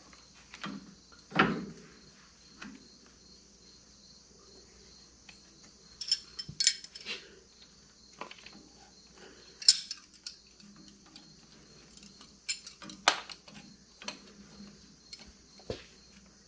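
Metal wrenches clinking and tapping against bolts and the starter housing as a starter is fitted to a Ferguson tractor: irregular sharp clinks, several in quick succession about six seconds in and again near ten and thirteen seconds.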